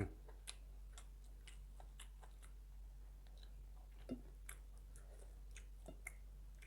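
Faint mouth sounds of a person eating rice and side dishes: quiet chewing with scattered small clicks and wet smacks, two of them sharper about four and six seconds in.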